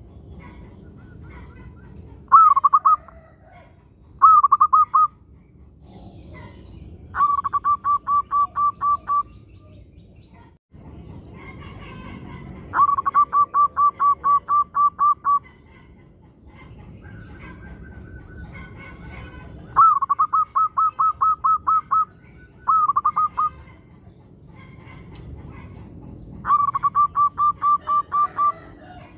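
Zebra dove (perkutut) singing: seven phrases of quick, evenly spaced cooing notes, some short and some running about two seconds, with pauses of a few seconds between them. A steady low rumble sits underneath.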